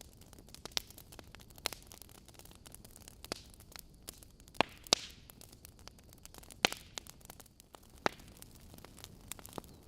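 Wood fire burning in a fireplace: logs crackling, with irregular sharp pops, the loudest about 4.5, 5 and 6.5 seconds in, over a steady low hiss.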